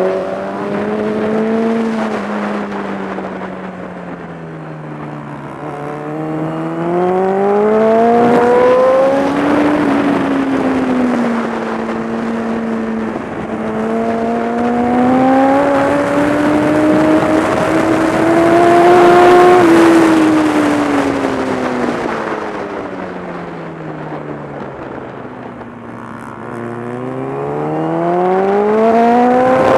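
Kawasaki ZX-10R's inline-four engine at track speed, recorded on board, its revs rising and falling with the throttle. The pitch drops over the first few seconds, climbs in two pulls to a peak about two-thirds of the way through, falls away, then climbs again near the end, over a steady rush of wind.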